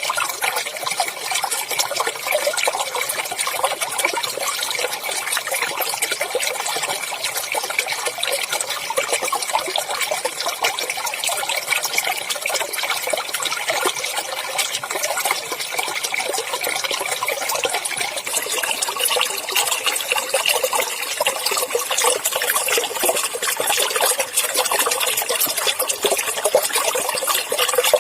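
Clear water flowing and splashing over rocks in a small stream: a steady, even babbling.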